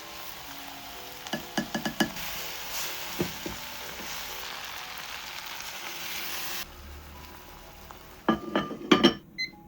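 Food sizzling in a hot pan, with a few utensil clinks against the pan as it is stirred. The sizzle cuts off suddenly, and a cluster of louder clinks and knocks follows near the end.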